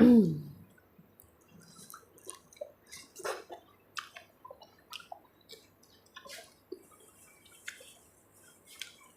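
Close-up eating of spicy seafood papaya salad: wet smacking and small crunchy clicks of chewing at irregular intervals, after a brief hummed "mm" at the start.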